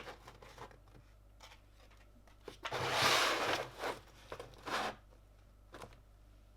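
Packaging being handled and crinkled. A rustling burst starts about three seconds in and lasts just over a second, a shorter rustle follows near five seconds, and a few light clicks come between.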